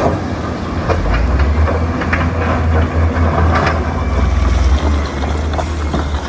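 Heavy diesel earthmoving machine running with a low, steady engine drone, and scattered clanks and knocks over it.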